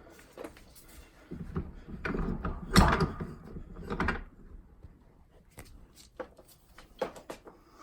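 Metal clunks and scraping as a ball joint press and its spacer are shifted into position against a steering knuckle. The knocks bunch together from about two to four seconds in, loudest just before three seconds, then a few light clicks follow.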